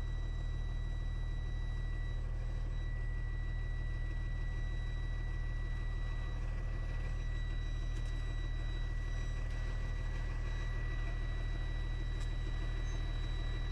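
Truck's diesel engine running steadily, heard from inside the cab as a low, even drone, with a faint steady high-pitched tone above it.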